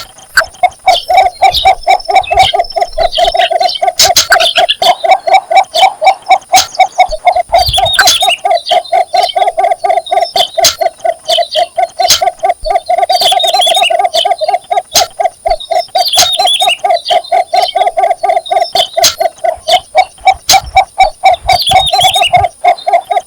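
Cinnamon bittern giving its mating advertisement call: a long, steady run of short, low notes repeated several times a second.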